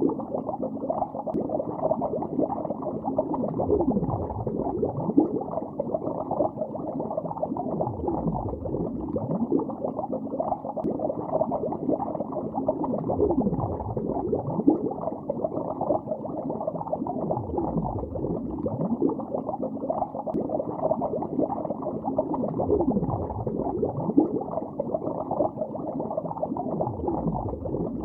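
Bubbles heard underwater: a continuous muffled bubbling and gurgling, with a slow swooping whoosh every four to five seconds.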